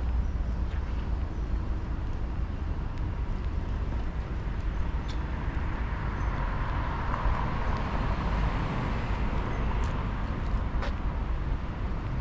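A car passing along a residential street, its tyre and engine noise swelling to a peak about halfway through and then fading, over a steady low rumble of street ambience.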